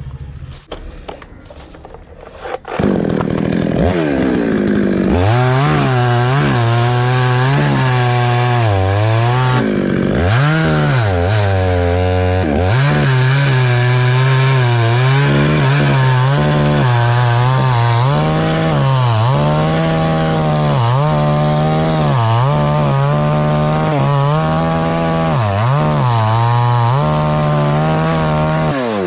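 Two-stroke chainsaw cutting coconut tree wood. It comes up to full speed about three seconds in, and its engine pitch keeps dipping and recovering as the saw is throttled and loaded in the cut.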